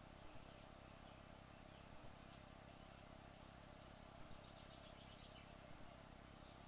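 Near silence: a faint steady hiss with a few soft ticks, and a brief faint high chirring about halfway through.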